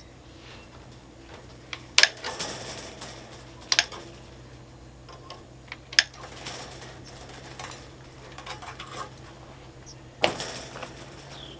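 Sheet of welded steel wire concrete mesh clanking as it is set down, with four sharp metallic clinks and a brief jangling rattle after the first and last.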